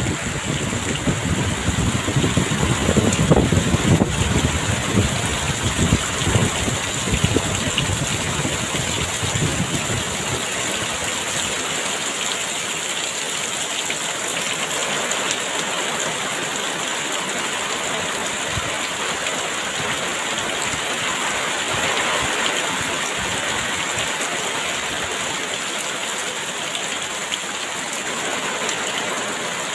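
Heavy rain pouring steadily, with gusts of strong wind surging during the first ten seconds or so before easing.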